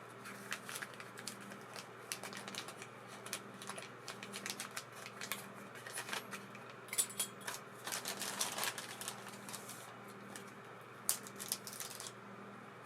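Irregular small clicks and taps of metal reel parts and tools being handled while an ABU Ambassadeur 2500C baitcasting reel is serviced, over a steady low hum.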